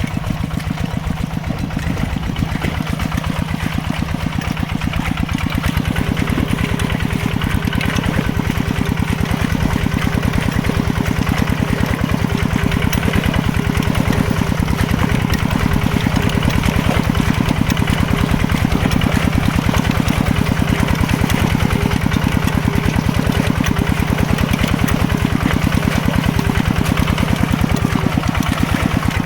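Mini tractor engine running steadily with a fast, even chugging beat, getting a little louder about six seconds in.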